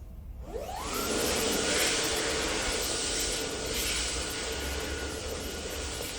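A fast-spinning fan or blower starts up: a whine rises over about half a second and then holds at a steady high pitch over a loud rush of air.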